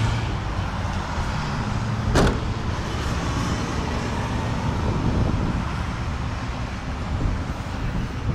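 A 2006 Mazda 6's trunk lid shut once with a loud thump about two seconds in, over a steady low rumble.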